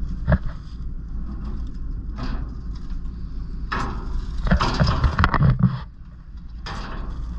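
Farm tractor engine running steadily under load, heard from inside the cab, with several bursts of rattling noise over the low rumble as it works across the field.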